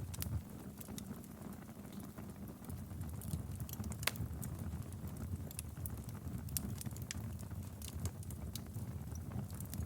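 Wood fire crackling in a fireplace: a steady low rumble of burning with irregular sharp pops and snaps, the loudest pop about four seconds in.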